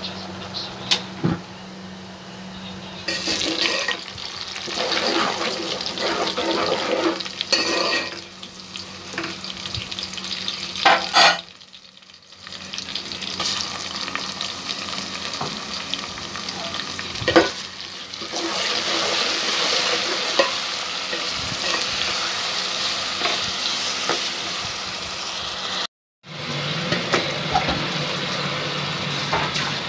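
Onions and spices sizzling in hot oil in a pot while a metal spoon stirs and knocks against the pot's side. Sliced tomatoes go into the oil near the end. The sizzling is louder from about two-thirds of the way through.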